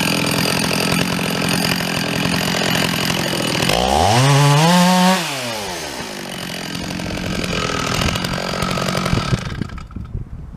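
Chainsaw running steadily, revving up to its loudest about four seconds in and dropping back. The engine stops shortly before the end.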